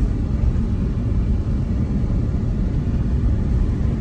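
Steady low road rumble inside a moving car, engine and tyre noise heard from the cabin.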